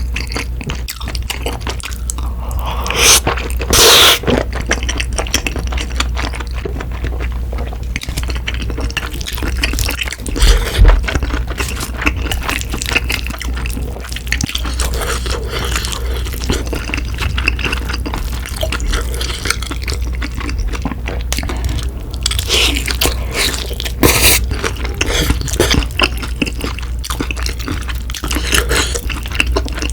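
Close-miked eating: wet chewing and smacking of chewy rice cakes in cream sauce, with occasional crunching of fried fritters. There are a few louder bursts, about three seconds in and again near the end.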